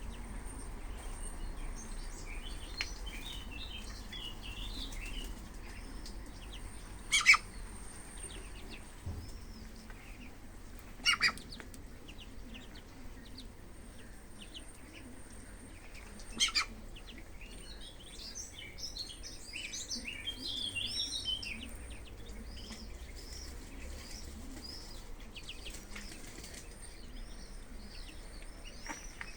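Ducklings peeping, many small high chirps that come in busy bursts, one a few seconds in and a bigger one about two-thirds of the way through. Three short, louder sounds stand out, spaced several seconds apart.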